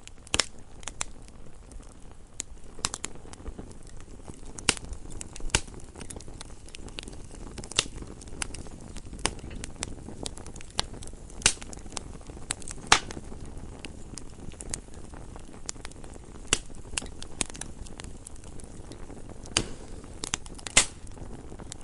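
Wood fire burning in a fireplace: a steady low rush of flame under irregular crackles and sharp pops, with a few louder snaps.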